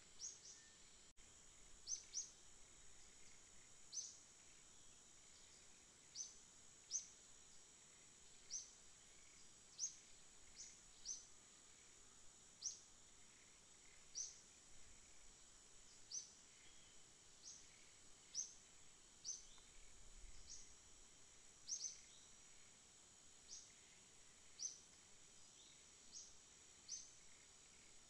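Faint outdoor ambience: a single bird repeating a short, high chip note about once a second at uneven gaps, over a steady high-pitched whine.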